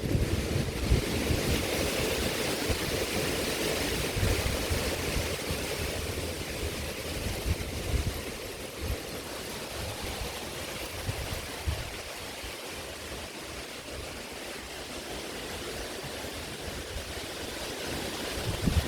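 Heavy rain falling steadily, a dense even hiss, with the low rumble of thunder dying away over the first few seconds.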